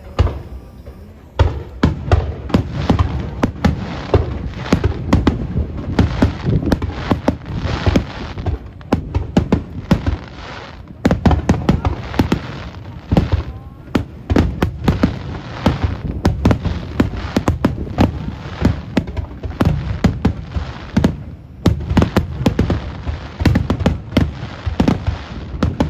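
Aerial fireworks bursting in a rapid, dense barrage, booms and crackling reports following one another several times a second with hardly a break.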